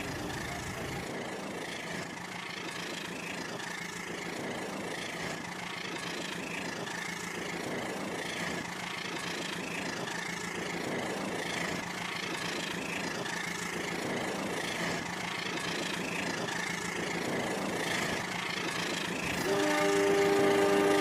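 Rail King battery toy train running on its track: a steady motor hum with a faint pattern that repeats about every second and a half.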